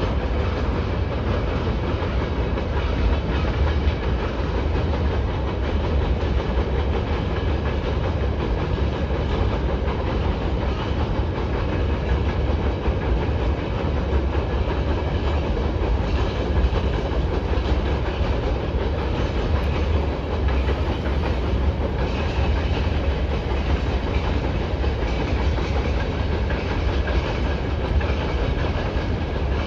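A long freight train of open wagons rolling steadily across a railway bridge, giving a continuous low rumble of wheels on rails.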